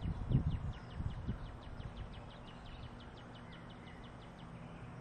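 A songbird's trill: a fast run of short, slightly falling chirps, about six a second, lasting about four seconds. Low rumbles and thumps sound in the first second or so.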